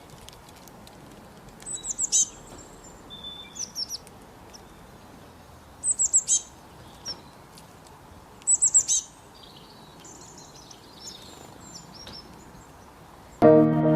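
Wild songbird calling: bursts of three to five quick, very high chirps, each dropping in pitch, repeated every two to three seconds, with fainter calls between them over a soft steady hiss.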